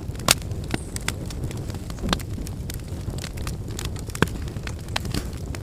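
Wood fire crackling, with irregular sharp pops over a steady low rumble; the loudest pops come just after the start and about four seconds in.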